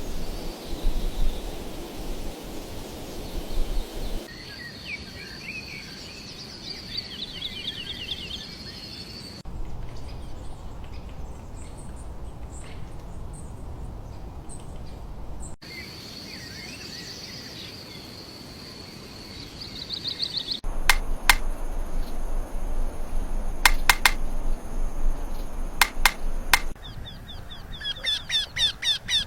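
Birds chirping and singing with high trills and whistled notes, in short recordings cut abruptly one into the next. A few sharp clicks come about two thirds of the way through, and rapid repeated calls come near the end.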